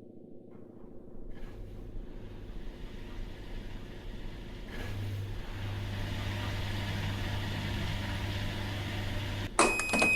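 Washing machine running with a steady low hum that grows louder about halfway through. Near the end a brief clatter, then a long high electronic beep starts.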